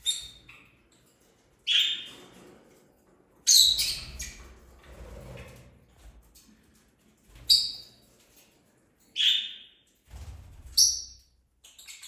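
Small pet parrots kept as love birds giving short, shrill squawking calls, about seven of them a second or two apart, with a low rumble under some of the calls.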